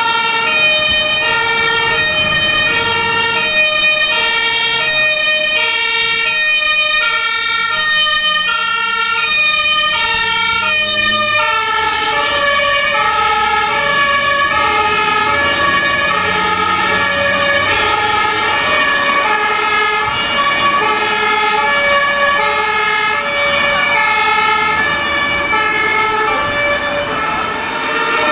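German fire-engine two-tone sirens (Martinshorn) sounding, the tones alternating high-low about every three quarters of a second. A second two-tone siren joins about halfway through, out of step with the first, over the low rumble of the vehicles.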